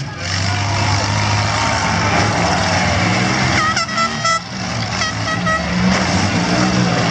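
Engines of six-cylinder mid-size demolition derby cars running and revving together. A series of short horn toots comes about three and a half seconds in, and another a second later.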